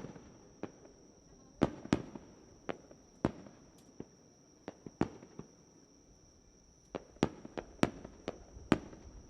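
Fireworks bursting overhead: about fifteen sharp bangs at irregular intervals, in loose clusters, some with a short echo after them.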